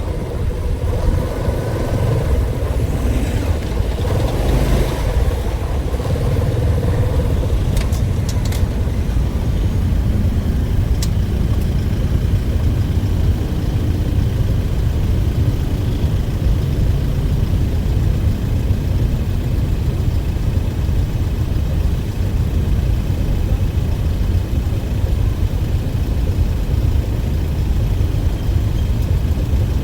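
A motor vehicle running with a steady low rumble, a faint hum in the first few seconds and a few light clicks about eight seconds in.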